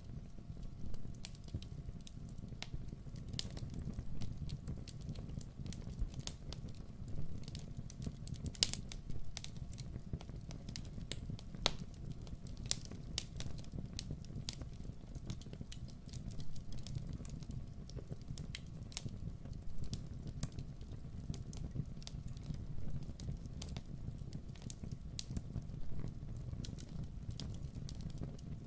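Wood fire burning in a fireplace: a steady low rumble of flame with frequent sharp crackles and pops at irregular intervals.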